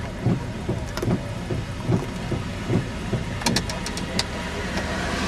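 A truck driving through floodwater in the rain, its engine running under a steady rumble, with a short thump about every three quarters of a second and a quick run of sharp clicks near the end.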